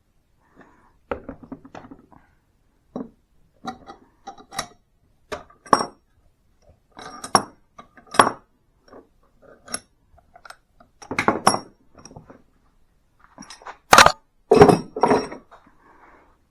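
Irregular metallic clinks and knocks, some with a short ring, from a hole saw and hand tools being handled as the stuck wood plug is worked out; the loudest strikes come near the end.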